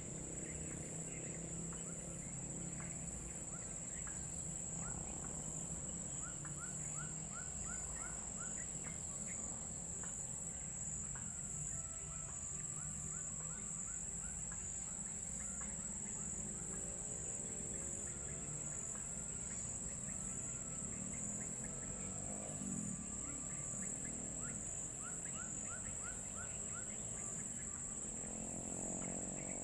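Bird chirps in quick runs of five or six short rising notes, repeated several times, over a steady high insect drone.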